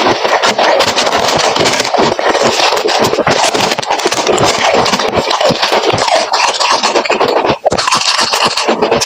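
Freezer frost being chewed: dense, continuous crunching, with one brief break about seven and a half seconds in.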